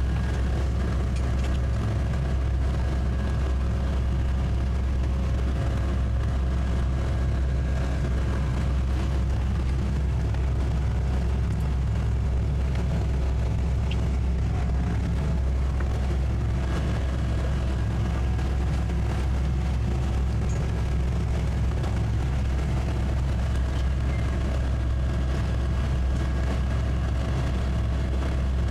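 Towboat's twin 200 hp Suzuki outboards running steadily under load, pulling a heavy yacht at low speed. A constant low drone with a steady engine tone on top.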